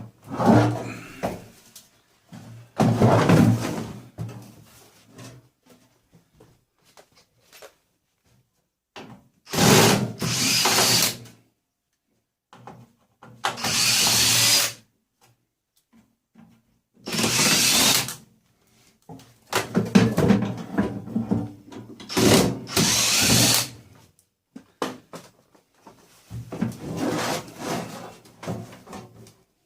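Power drill run in short bursts of one to two seconds, about eight times, with quiet gaps and small clicks in between.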